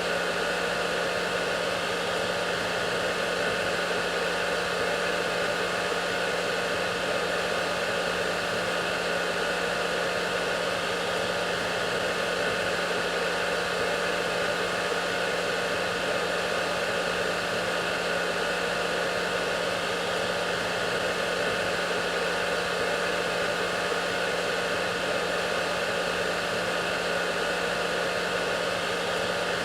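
Hair dryer running steadily: an even rush of blown air with a constant low hum and a few faint steady tones above it, unchanging throughout.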